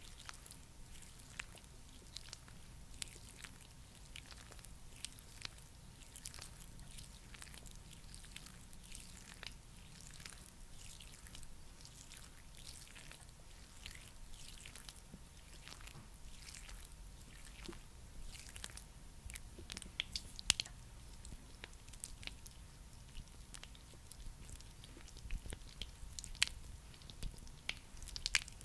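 Close-miked skincare ASMR sounds: a thick, sticky product being worked with fingers, making a steady run of small wet, squishy crackles and clicks, with a few sharper clicks around two-thirds of the way through.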